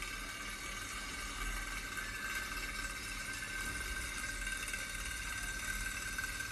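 Small model Stirling engine generator running steadily: a continuous mechanical whir with a steady high-pitched whine.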